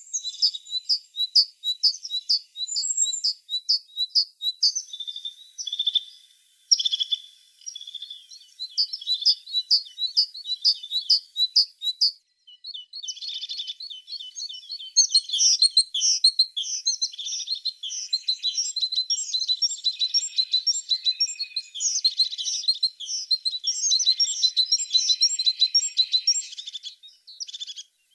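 Tits singing: rapid runs of short, high repeated notes. After a brief break about twelve seconds in, a denser, overlapping chatter of high chirps follows.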